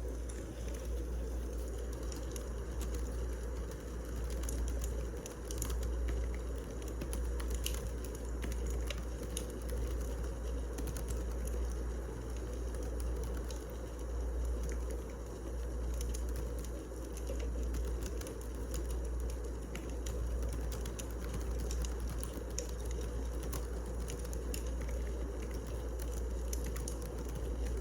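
Wood fire burning: logs crackling with irregular sharp pops over a steady low rumble.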